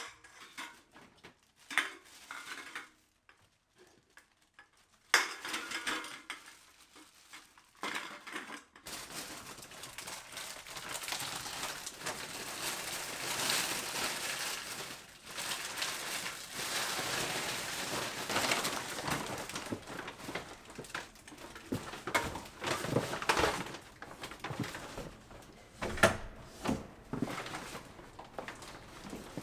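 Household handling sounds: scattered clinks and knocks of dishes and utensils, then from about nine seconds in a steady rushing noise with more clatter over it.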